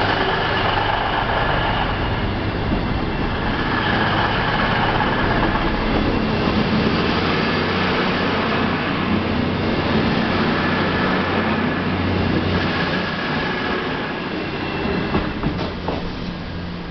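Diesel passenger train running past at speed over a level crossing, a steady din of wheel noise and engine hum. It dies away near the end as the last carriage clears the crossing.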